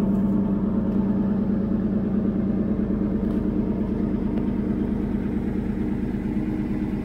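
Truck engine idling steadily, a low even hum with a fast, regular pulse.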